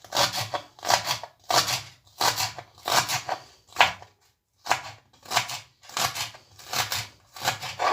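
Kitchen knife cutting vegetables on a cutting board, about one and a half strokes a second with a short pause about halfway through. The vegetables are being cut very fine.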